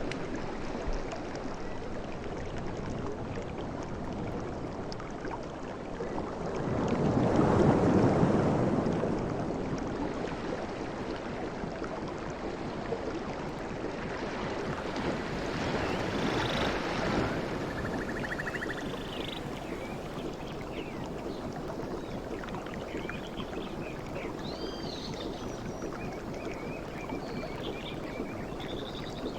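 Sea waves washing on a shore: steady surf noise, with one wave surging up loudest about eight seconds in and a smaller one around sixteen seconds. Faint high chirping calls come and go in the second half.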